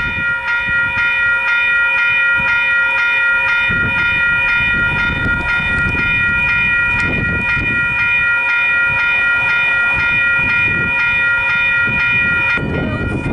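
Western Cullen Hayes electronic level-crossing bells ringing, a rapid repeated ding about three strokes a second, with a low rumble underneath; the bells stop about twelve and a half seconds in.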